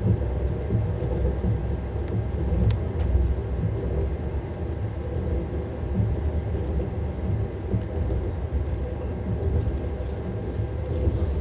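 Lastochka electric train running on the rails: a steady low rumble of wheels on track, with a couple of faint sharp clicks.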